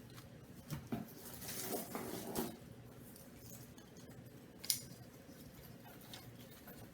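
Rustling and light clicking as bird toys and their packaging are handled, with a patch of rustling in the first half and a few sharp clicks later.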